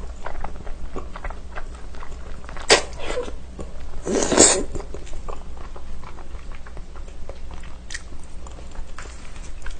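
Close-up mouth sounds of someone eating: wet chewing with many small clicks, and two louder bites, about three seconds in and again at four and a half seconds.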